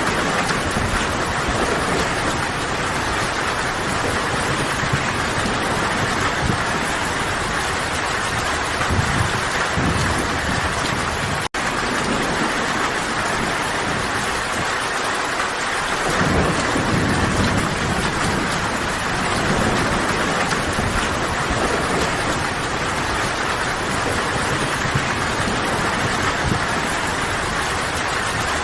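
Steady, dense rainfall in a forest: an even hiss of rain with occasional low swells underneath. The sound cuts out for a split second about eleven seconds in.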